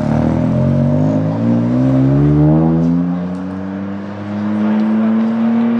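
Toyota Corolla race car's engine accelerating hard away from standstill. The revs climb steadily for about three seconds, drop back at one upshift, then rise again more slowly as the car pulls away.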